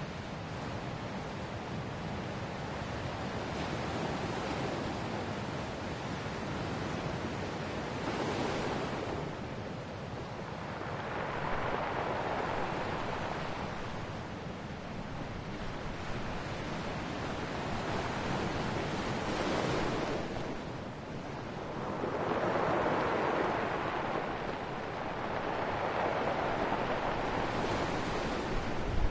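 Ocean waves breaking and washing onto the shore, the surf swelling and fading in slow surges about every ten seconds.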